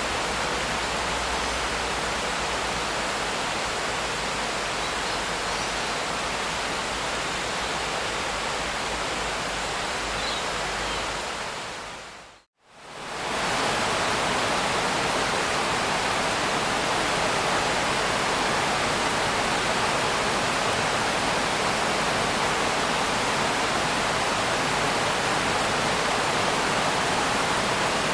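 Steady rain, a dense even hiss. About twelve seconds in it fades out to a moment of silence and fades back in, slightly brighter and with less low rumble than before.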